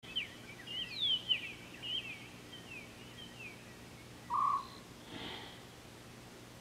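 Wild birds calling at an African watering hole: a run of quick chirps and sweeping whistles for about three seconds, then a single short, steady note a little past four seconds in, the loudest sound, followed by a brief soft noise.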